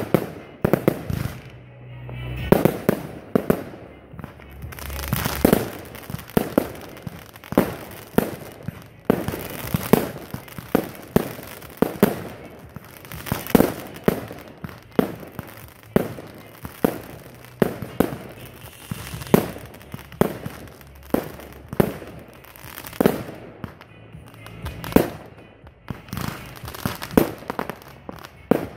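Fireworks display: aerial shells and cakes bursting in a rapid string of bangs, about two a second, over music.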